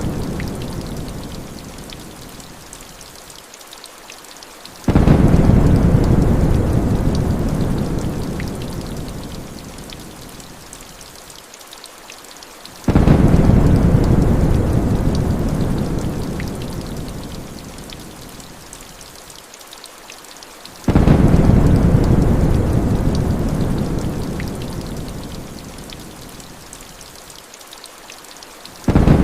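Heavy rain hissing steadily under rolls of thunder. Each roll starts abruptly and fades over several seconds, repeating evenly about every eight seconds, four times.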